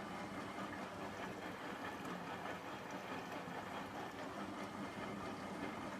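Hotpoint front-loading washing machine running mid-cycle on a cotton wash: a steady, even machine noise with a low hum throughout.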